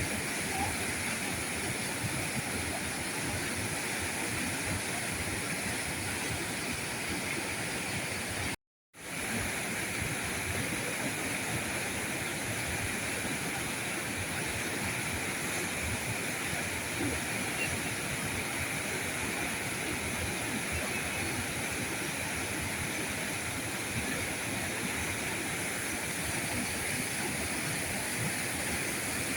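River current rushing steadily over its bed in an even wash of water noise. The sound cuts out completely for a moment about nine seconds in and fades quickly back.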